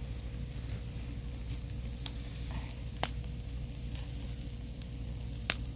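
Campfire burning with a steady low rush and scattered sharp crackles and pops, three of them louder than the rest.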